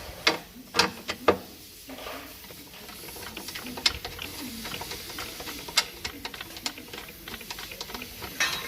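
Scattered sharp metallic clicks and knocks of a bolt and hand tools against a bracket being fitted under a car, a few loud ones in the first second and a half, then lighter taps.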